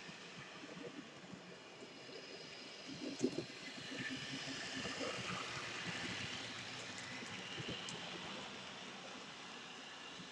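Model cab-forward steam locomotive running on layout track: a steady hiss of motor and wheels that grows louder in the middle as it comes closer, with a short knock about three seconds in.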